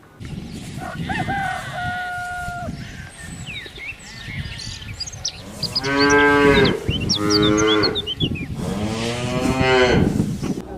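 Cattle mooing: three loud calls in the second half, the last one the longest, with short high bird chirps over them. A shorter steady call about a second in.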